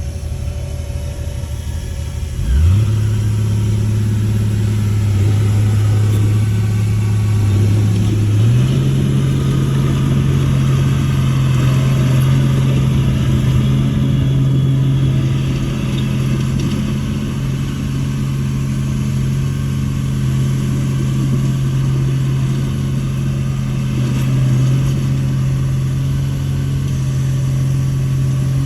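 Heavy machine's diesel engine revving up sharply about two and a half seconds in, stepping up again to a higher speed a few seconds later, then running steadily at high revs.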